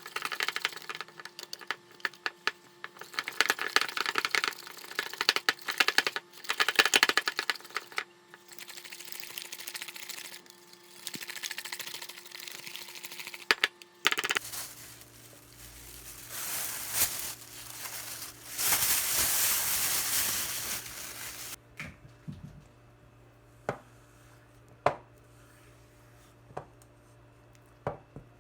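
Objects being handled at close range: dense clicking, rattling and crinkling. Partway through it changes to a steady low hum with several seconds of hiss, then a few separate taps.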